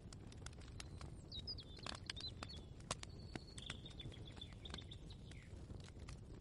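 Ambient kitchen soundscape: small birds chirp in short bending calls, with a run of chirps from about halfway in. Scattered light clicks and knocks sound over a steady low rumble.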